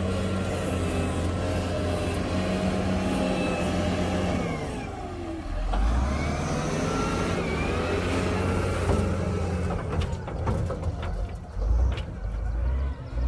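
Heavy construction machine's diesel engine running, its pitch dropping about four seconds in and rising again around six seconds. Several sharp knocks and clanks come near the end.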